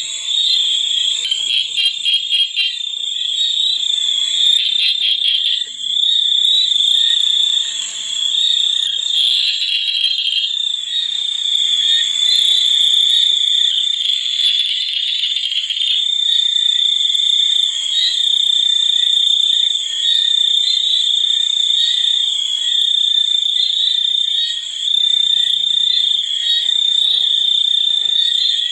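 Chorus of frogs and insects: a steady, high-pitched ringing drone, with rapid pulsing calls over it a few times in the first ten seconds.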